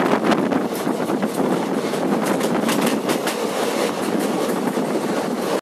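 Passenger train running at speed, heard from an open coach door: a steady rush of air and wheel noise, with the irregular clatter of wheels over rail joints.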